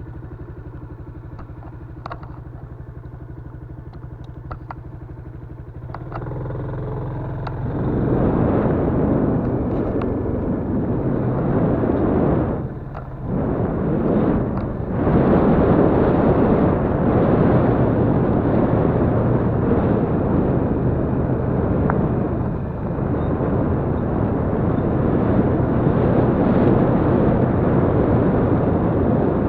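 Yamaha Crypton-X single-cylinder four-stroke motorcycle engine idling steadily, then revving and pulling away about six to eight seconds in and running under load while riding, with a short dip in engine sound around the middle, as on a gear change.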